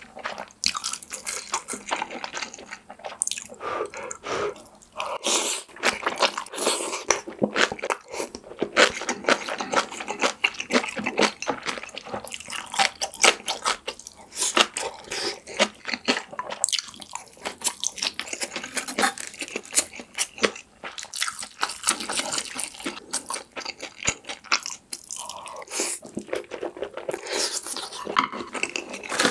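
Close-miked eating sounds: a steady run of wet chewing, smacking and crunching as mouthfuls of braised kimchi stew with Spam and steamed rice are eaten.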